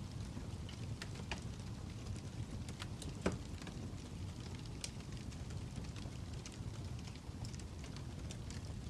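Fire crackling: scattered sharp pops and snaps over a steady low rumble, with one louder pop about three seconds in.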